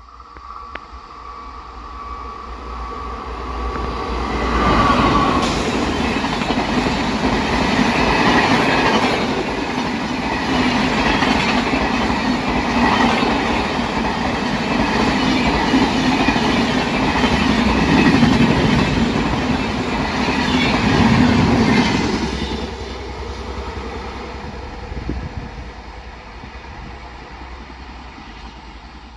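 Express passenger train hauled by a WAP-4 electric locomotive passing at speed, its wheels clattering over the rail joints. The sound builds over the first five seconds, stays loud until a little over twenty seconds in, then fades as the train recedes.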